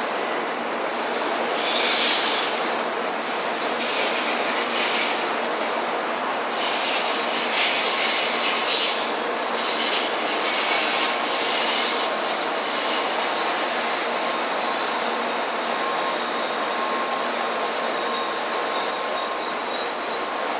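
N700 series Shinkansen train rolling slowly into the platform, a steady running rumble with a high-pitched squeal that grows stronger toward the end as it brakes to a stop.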